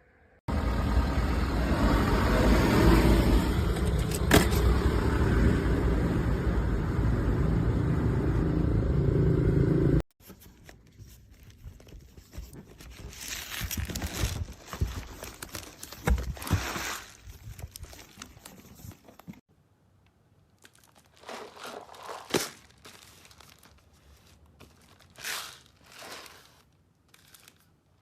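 A loud, steady rushing noise for about ten seconds that cuts off abruptly, then irregular crinkling, scraping and tearing of plastic packaging with a few clicks as the dehumidifier tubs are handled and unwrapped.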